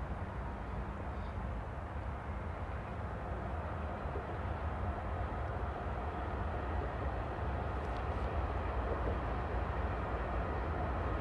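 A train passing at a distance: a steady low rumble of locomotive and rolling cars, growing slowly louder.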